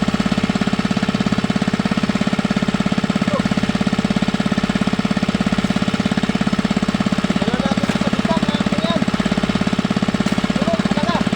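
A small single-cylinder engine running steadily at a fast, even putter.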